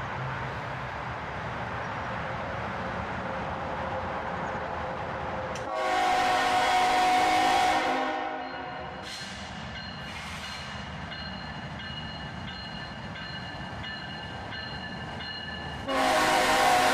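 Approaching freight train's steady rumble, then the lead locomotive's air horn sounding two long blasts, one about six seconds in and one near the end, each about two seconds long.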